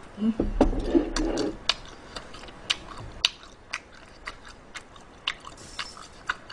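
Close-miked chewing of a mouthful of food, with many short, sharp mouth clicks, a couple each second, and a brief hum in the first second or two.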